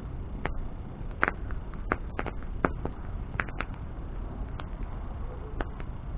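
Wood bonfire burning: irregular sharp crackles and pops from the burning wood, roughly one or two a second, over a steady low rush of flame.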